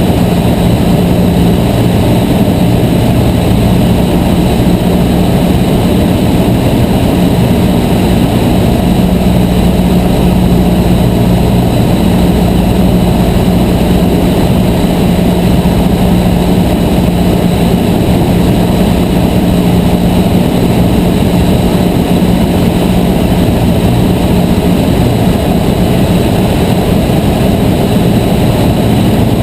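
Cessna 152's four-cylinder piston engine and propeller droning steadily, heard from inside the cockpit, with a constant low hum.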